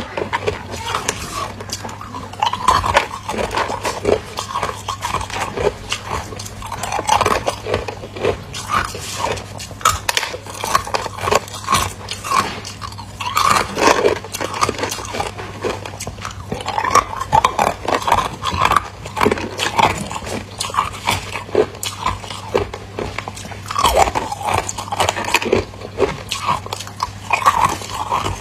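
A person biting and chewing ice, close-miked: dense, irregular crunching and cracking that keeps up throughout.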